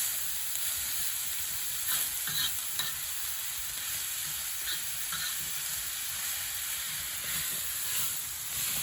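Pork belly and kimchi frying on an iron griddle, a steady sizzle as the fat renders, with a few short scrapes and clicks of a utensil against the plate.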